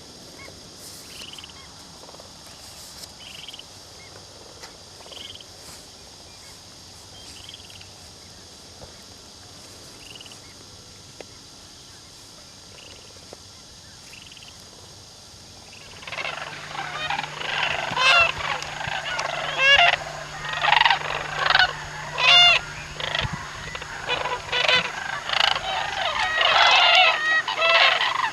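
A flock of geese honking: faint scattered calls at first, then about sixteen seconds in a loud, dense chorus of many birds calling over one another.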